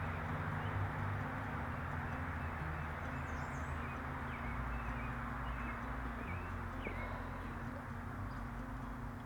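Steady rush of flowing river water, with a few short bird chirps about three seconds in.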